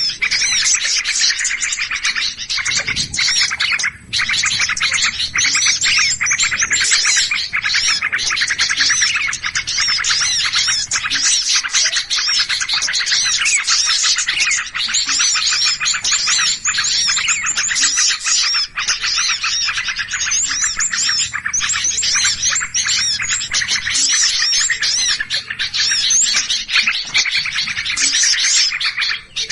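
A dense chorus of many small birds chirping and calling rapidly over one another without pause: a noisy, agitated bird-lure chorus. There is a brief drop about four seconds in.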